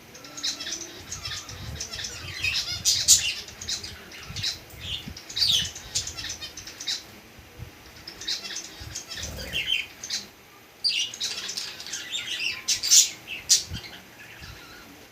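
Several birds calling together in short, sharp squawks and chirps, with low thumps between the calls.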